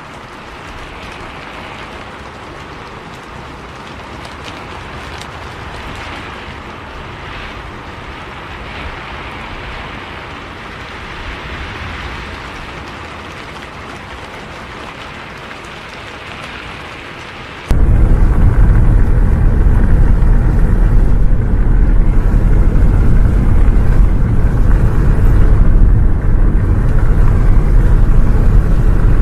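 Steady rain hiss, then about two-thirds of the way through an abrupt cut to the much louder, steady low rumble of a bus on the road, with rain.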